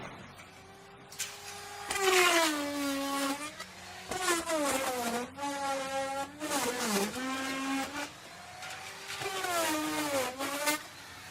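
Electric wood router running at high speed with a whine. Its pitch sags and recovers about four times as the bit is pushed into the wood under load and eased off again.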